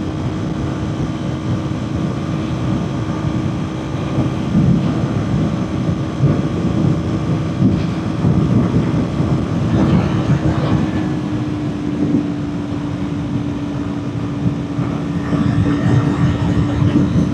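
Kawasaki Ninja 400's parallel-twin engine running at steady high revs at speed, under heavy wind buffeting on the microphone.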